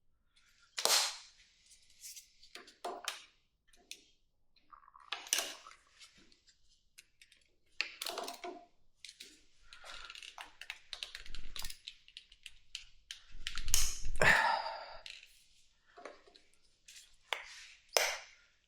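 Irregular clicks, knocks and scrapes of a screwdriver and its bits against metal as stuck screws are worked at, with a longer, louder scraping clatter about fourteen seconds in.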